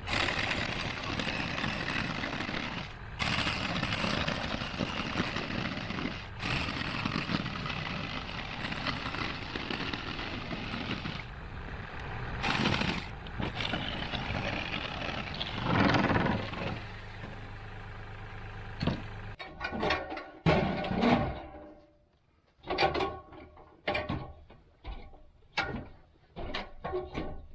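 Steady, dense machine-like noise with a few brief breaks, then, about nineteen seconds in, a string of sharp knocks with a short ring, like hammer blows during building work.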